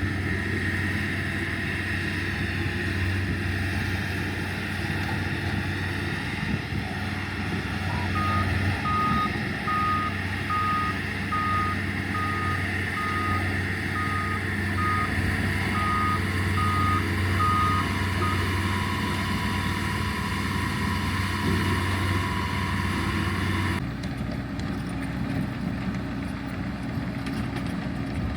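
Diesel earthmoving machine running steadily while backing up, its reversing alarm beeping about a dozen times, roughly once a second. Near the end the engine sound changes abruptly.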